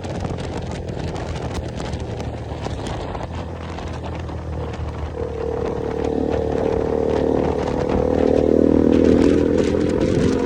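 KTM motorcycle engine running steadily while riding, with road and wind noise. From about five seconds in, a louder held sound with several pitches rises over it and is loudest near the end.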